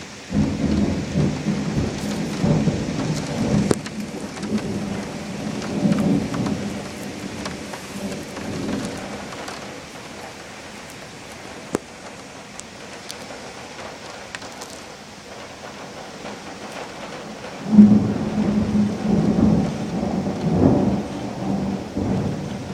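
Two peals of thunder in a rainstorm over steady rain. The first begins suddenly just after the start and rumbles for several seconds before fading. The second opens with a sharp, loud crack about three quarters of the way through and rolls on to the end.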